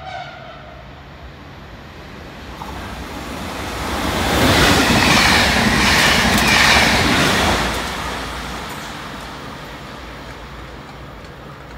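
A double-deck electric regional passenger train passing at speed alongside the platform. Rumble and wheel-on-rail noise swell over a few seconds, peak with a clatter of wheels over rail joints, then fade away as the train recedes.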